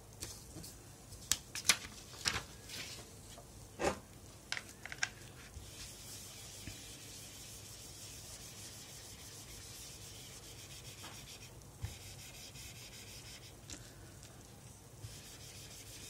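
Writing by hand: a run of short scratchy strokes in the first five seconds, then fainter steady rubbing.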